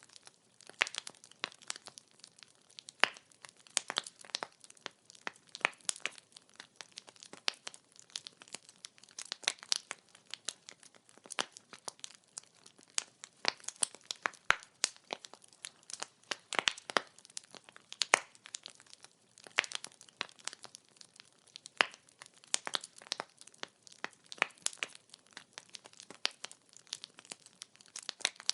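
Wood fire burning, its firewood crackling in a dense, irregular stream of sharp snaps.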